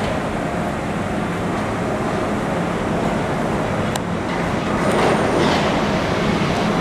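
R42 subway train running as it approaches, a steady rumble that grows louder over the last couple of seconds, with one sharp click about four seconds in.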